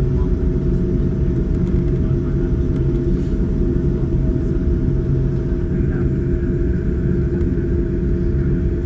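Boeing 787-9 cabin noise from a window seat: a steady, loud rumble of jet engines and airflow with a constant low hum.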